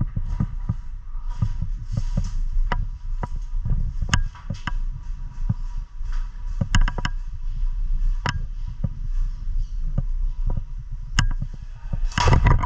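Irregular low thumps and rumble of a player moving with a body-worn action camera, scattered with sharp clicks, and a louder rustling burst near the end.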